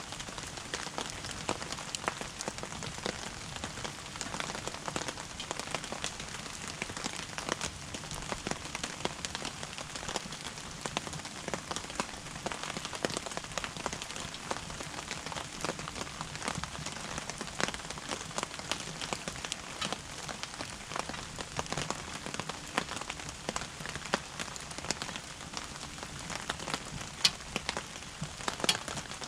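Wood fire crackling steadily with a dense run of small pops, and a few sharper snaps near the end.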